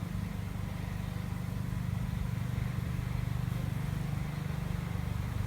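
A swarm of honey bees buzzing: a steady, dense hum of many wings as the swarm settles into a swarm-trap box.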